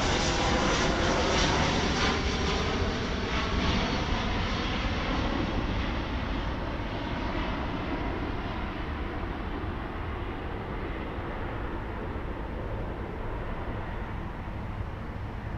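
Boeing 737-800 airliner on final approach, its CFM56 turbofan engines heard as a loud jet rush that slowly fades and loses its high end as the aircraft moves away.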